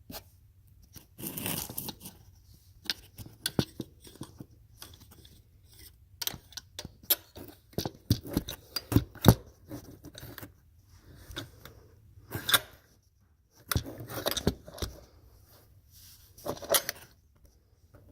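Irregular sharp clicks and short scraping, rustling noises of hand tools being handled against metal while an oil filter wrench is worked onto the old oil filter.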